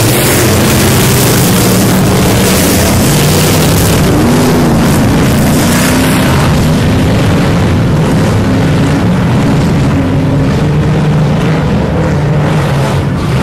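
Several off-road race Jeeps running their engines hard, the pitch rising and falling as they rev through the course.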